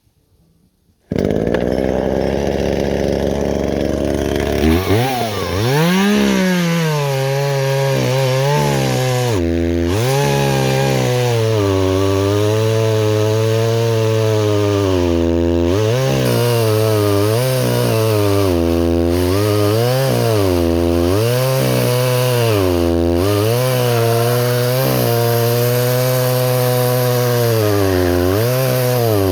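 Gas chainsaw starting abruptly about a second in and running steadily. About four seconds in it revs up and cuts into a dead, hollow tree, its engine pitch dipping and recovering again and again as the chain bites into the wood.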